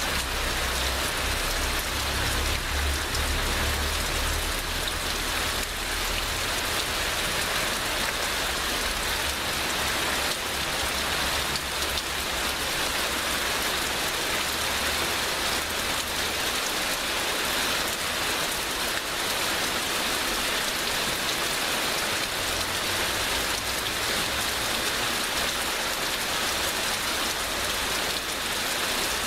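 Steady heavy rain, a dense even hiss of drops on surfaces, with a low rumble underneath that fades out about ten seconds in.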